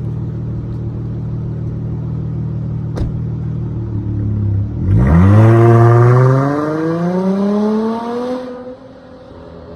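Dodge Charger SXT's V6 through a Flowmaster Outlaw exhaust, idling with a deep steady burble, then about five seconds in accelerating hard, the pitch rising for about three seconds before it lets off. A single sharp click about three seconds in.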